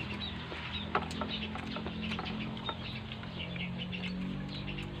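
Small birds chirping quickly and repeatedly in short high notes, with a few sharp clicks over a low steady hum.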